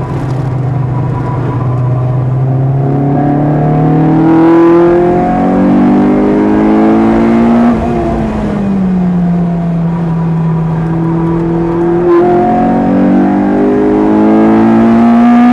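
Lotus Elise engine heard from inside the car at track pace. The revs climb hard under acceleration, fall away as the driver lifts off about halfway through, then climb again towards the end.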